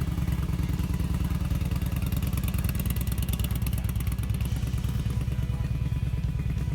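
Motorcycle engine running steadily close by, a rapid even train of low firing pulses.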